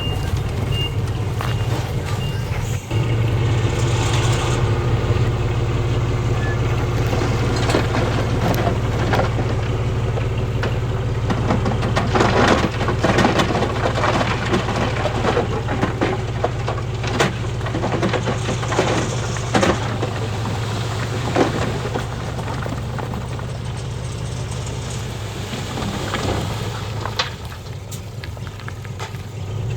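Heavy diesel construction machinery running steadily, with loose stones clattering and crunching in many sharp knocks through the middle stretch as rock is tipped and pushed. A reversing alarm beeps at the start.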